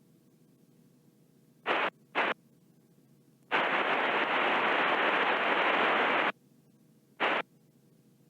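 Bursts of hiss on the aircraft's VHF radio: two short crackles, then a longer hiss of about three seconds, then one more short burst. These are radio static or an unreadable carrier breaking the squelch on the frequency.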